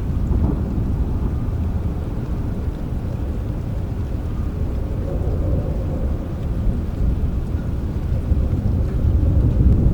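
Steady rain under a continuous low rumble of distant thunder, swelling slightly near the end.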